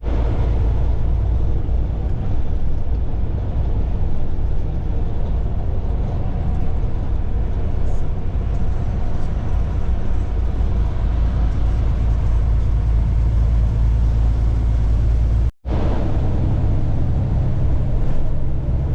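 Semi truck running down the road, heard from inside the cab: a steady low diesel engine drone with road rumble, with a brief break about three-quarters of the way through.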